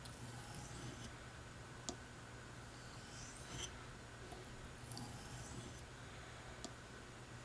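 Buck 389 Canoe pocketknife blade being stroked across a hard Arkansas oilstone: faint hissing swipes every second or two while the edge is honed and polished, with two sharp clicks between them.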